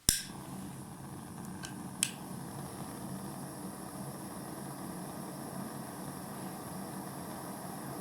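A 16-cylinder model Stirling engine running steadily. A sharp click comes right at the start and two lighter clicks about a second and a half to two seconds in.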